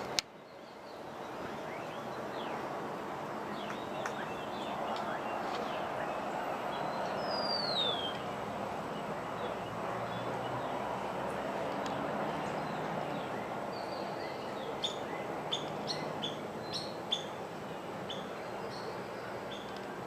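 Wild birds calling over a steady background hum: a single falling whistled note about seven seconds in and a quick run of short, sharp chirps later on. A sharp click comes right at the start.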